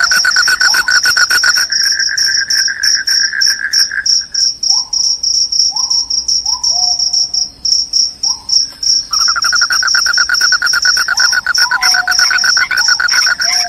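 Crickets chirping loudly in a continuous, fast-pulsed high trill. A second, lower pulsed trill drops out for about four seconds in the middle and then resumes, and a few short rising calls sound lower down.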